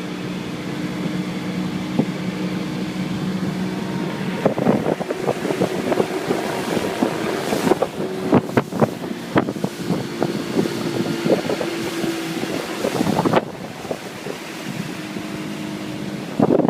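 Motorboat engine running steadily under way, with wind noise on the microphone. From about four seconds in, irregular thumps and knocks join it, easing off shortly before the end.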